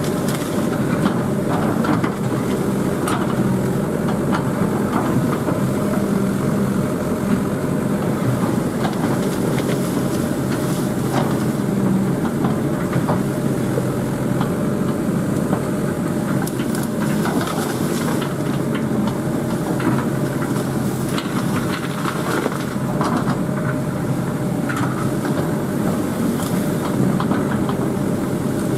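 Excavator diesel engine running steadily under load, with scattered sharp clanks and cracks throughout.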